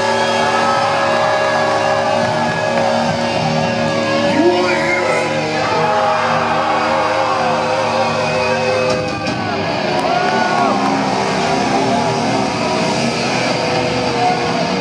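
Live thrash metal band playing loud distorted electric guitars and bass with shouted vocals, echoing in a large hall; the sound changes about nine seconds in.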